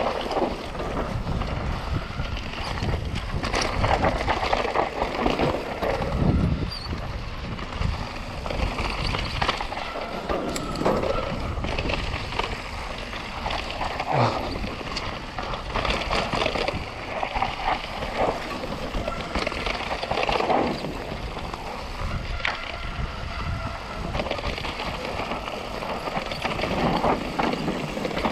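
Mountain bike descending a rough trail at speed: tyres rolling over dirt and rock under a continuous rushing noise, with frequent irregular rattles and knocks from the bike over the bumps.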